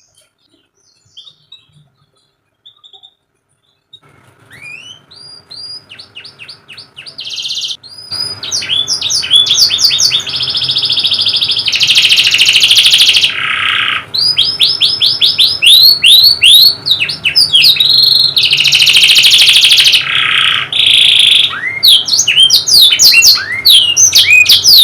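Domestic canary singing: rapid series of steep chirp notes and dense rolling trills. It starts after a few seconds of near silence, builds up, and is loud and continuous from about a third of the way in.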